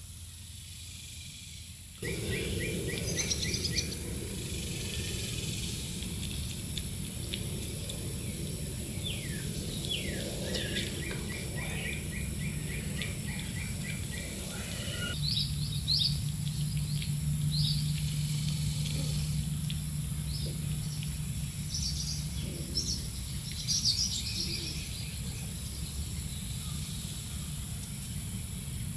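Songbirds chirping outdoors, with rapid trills and short falling notes scattered through, over a steady outdoor background noise; a low steady hum joins in for several seconds in the middle.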